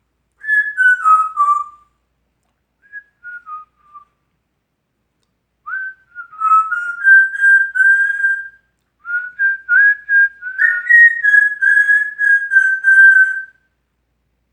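African grey parrot whistling a self-made tune in clear notes. It opens with a short falling phrase, then a brief quieter phrase. After a pause come two longer runs of notes that step up and down and are mostly held.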